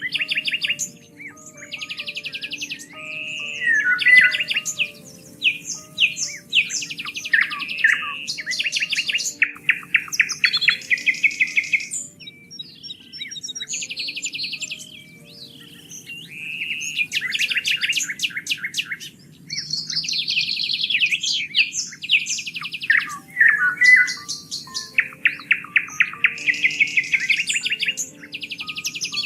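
Several songbirds chirping and trilling, with quick runs of rapid repeated notes, over soft background music of held low notes.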